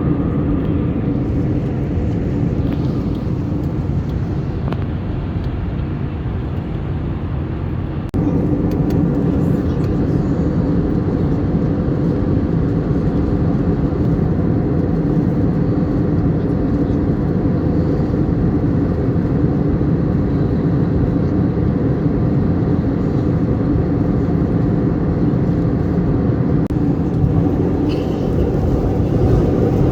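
Steady loud roar of an airliner's engines and airflow heard inside the cabin, with a steady low hum. The level jumps up abruptly about eight seconds in, at a cut in the recording.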